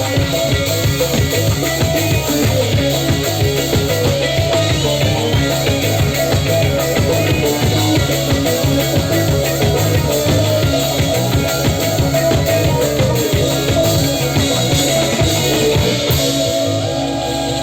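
Live band playing an improvised organic psytrance jam: a steady drum-kit beat with bass, electric guitars, keyboards and hand percussion. Near the end the beat thins out and a held note rings on.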